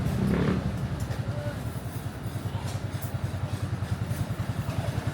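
A motorcycle engine running at a steady idle, a fast, even low throb, a little louder in the first half-second.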